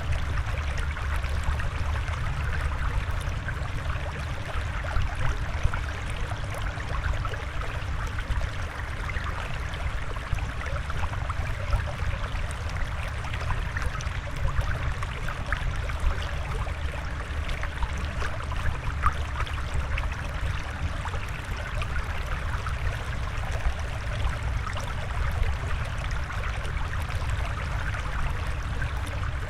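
Flowing water bubbling and trickling steadily, with a low rumble under a fine crackle.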